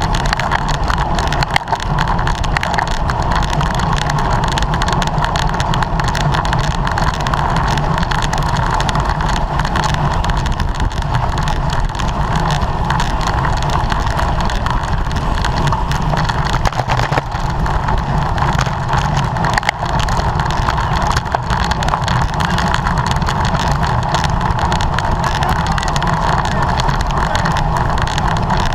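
Steady rushing wind on the microphone of a camera riding along on a racing bicycle at speed, with tyre and drivetrain noise underneath.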